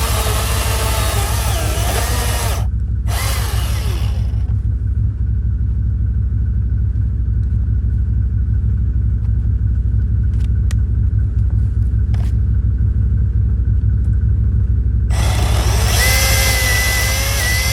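Milwaukee M18 cordless chainsaw running in short spells: its motor whine wavers in pitch at the start, stops abruptly, returns briefly, and starts up again about sixteen seconds in. A loud, steady low rumble runs underneath throughout.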